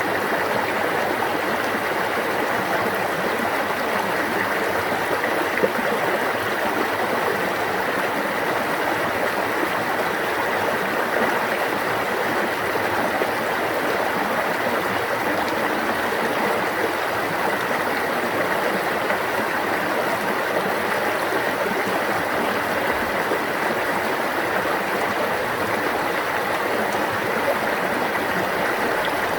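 Stream water flowing and babbling over rocks in a steady, unbroken rush.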